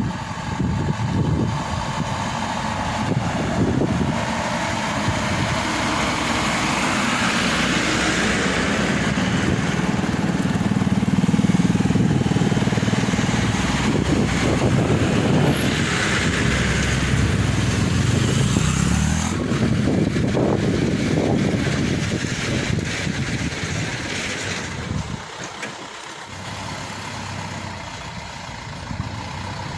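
A heavy vehicle's engine running under load, growing louder through the middle and easing off near the end.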